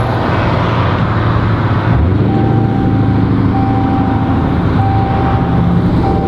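Car cabin engine and road noise. From about two seconds in, a steady warning tone repeats in roughly one-second beeps with short gaps: the seatbelt reminder chime for the driver's unfastened seatbelt.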